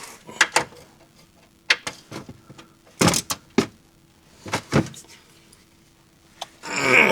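Scattered sharp metal clanks and knocks of hand tools and parts being handled while getting set to drain the engine oil, ending in a louder, longer scraping burst.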